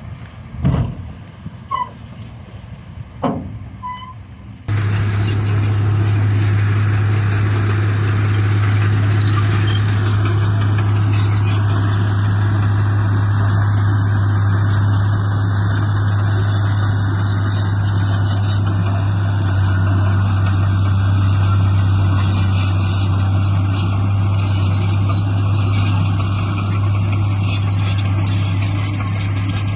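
A few sharp knocks over quieter machine noise, then, about five seconds in, a heavy diesel engine of earth-moving equipment suddenly comes in loud and runs steadily with a deep, even hum.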